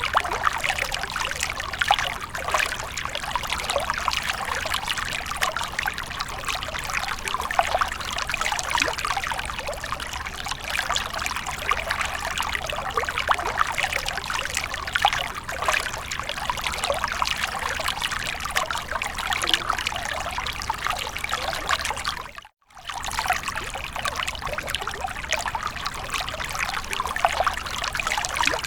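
Water from a fountain splashing and trickling steadily. The sound cuts out for a fraction of a second about three-quarters of the way through, then resumes unchanged.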